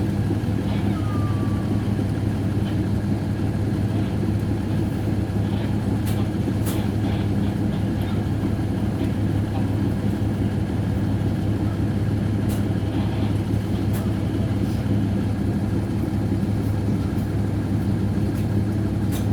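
Diesel train engine running steadily: a constant low hum with a few faint clicks over it.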